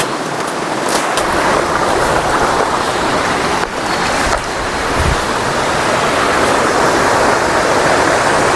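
Steady rushing roar of a waterfall close by, with a few faint knocks in the first second or so.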